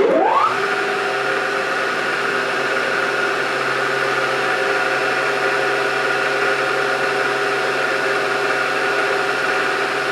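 Milling machine spindle motor switched on, spinning up within about half a second, then running at steady speed with a constant hum and whine.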